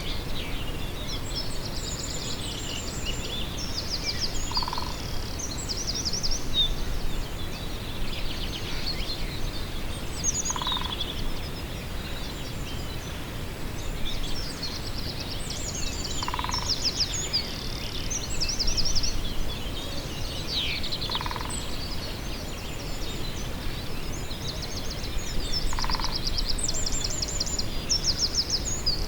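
Wild birds singing: repeated rapid high trills and chirps, with a short lower note about every five seconds, over a steady low background rumble.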